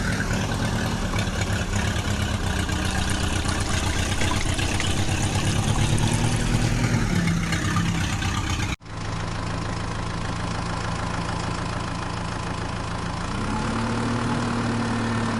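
Heavy vehicle engine sound effect running steadily, its pitch rising briefly about two-thirds of the way through the first part. It cuts off abruptly about nine seconds in and is replaced by a second, slightly quieter engine that rises in pitch near the end.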